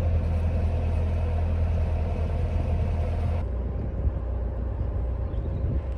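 Narrowboat diesel engine running steadily while cruising, a low even hum; the higher hiss drops away about halfway through.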